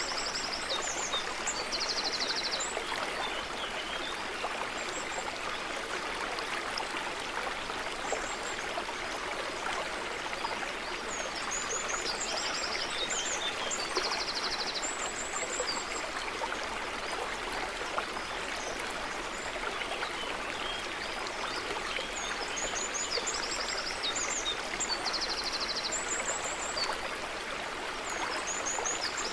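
A stream running steadily over stones, with a songbird's short high song phrase heard three times, about every twelve seconds.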